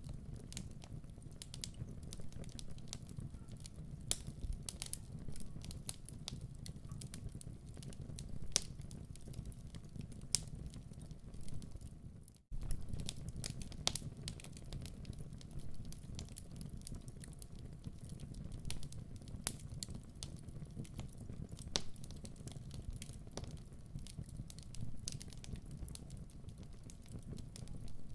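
Wood fire burning in a fireplace: a steady low rumble of flames with many small, irregular crackles and pops. The sound cuts out for an instant about twelve seconds in, then carries on.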